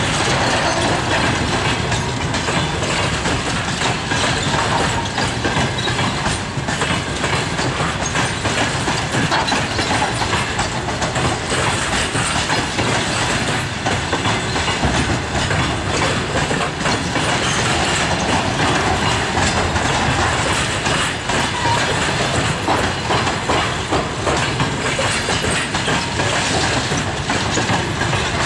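Passenger coaches of a departing train rolling past at low speed, their wheels clattering over the rail joints with a continuous steady rumble.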